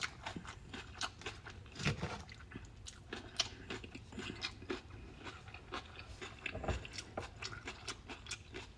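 Close-up chewing and crunching of a raw vegetable salad, with irregular crisp crunches and small wet mouth sounds.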